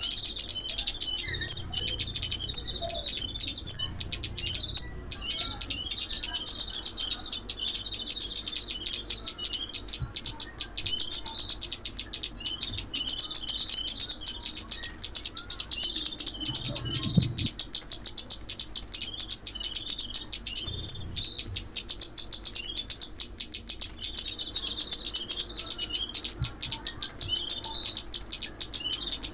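Crimson sunbird calls, used as a trapping lure: a fast, high-pitched, almost continuous stream of chirps and twitters over a thin steady whistle, with only brief pauses.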